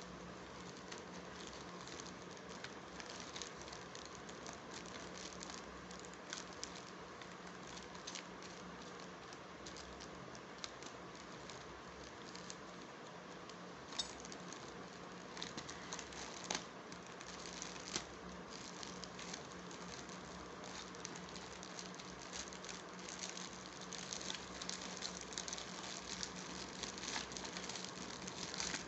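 Faint rustling and crinkling of parcel packaging being opened by hand, with scattered small clicks and a few sharper snaps, over a faint steady hum.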